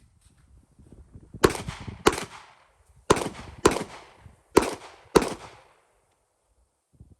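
Six pistol shots from a Glock 19 fired as three quick pairs, the two shots of each pair about half a second apart, with short echoing tails after each shot.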